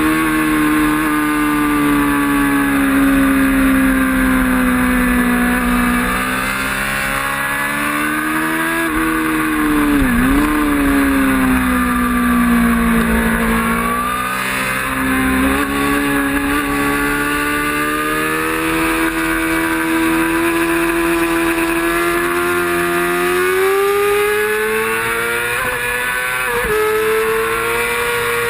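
Racing motorcycle engine running hard at high revs, its pitch easing down and climbing again as the throttle and gears change, with a quick drop and rebound about ten seconds in and a rising pull near the end.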